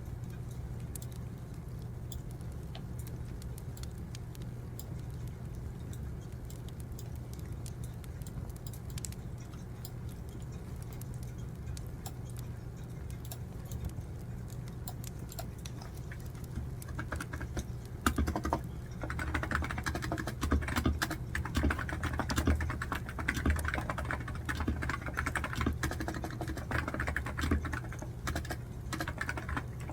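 Computer keyboard typing in quick, irregular clicks, starting a little over halfway through and louder than everything else. Under it, the faint crackle of a wood fire with a steady low hum.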